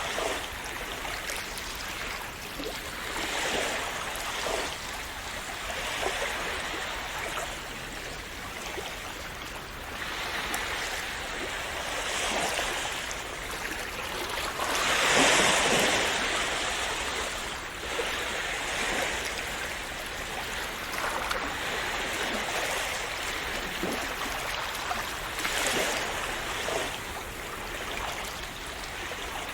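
Small sea waves washing and splashing in a continuous rush, swelling every few seconds, with the biggest splash about halfway through.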